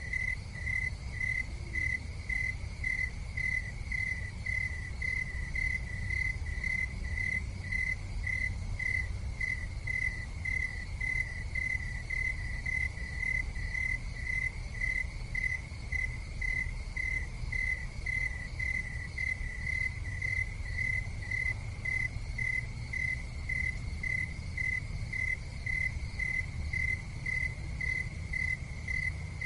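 A cricket chirping in an even rhythm, about two chirps a second on one clear tone, over a steady low rumble.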